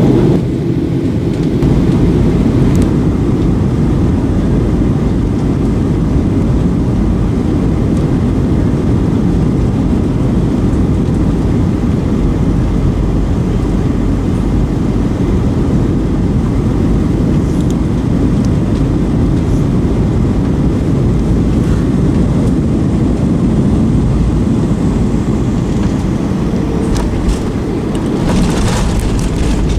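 Steady low rumble of airflow and jet engines inside the cabin of a Boeing 737-900ER on approach. A brief rise in higher-pitched hiss comes near the end.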